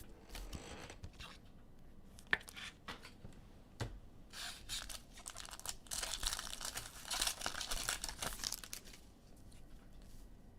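A trading-card pack wrapper being torn open and crinkled, with a few sharp clicks and rustles at first, then a dense stretch of crinkling from about four to nine seconds in.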